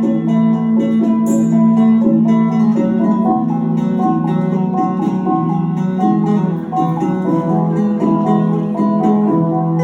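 Dayak dance music led by a sape, the plucked boat-lute of Borneo, picking quick repeating melodic figures over a steady low drone.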